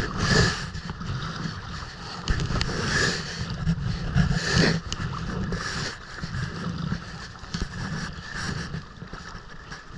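Wind rumbling on the microphone over open water, with splashing and lapping of water around the kayak that swells in short bursts several times.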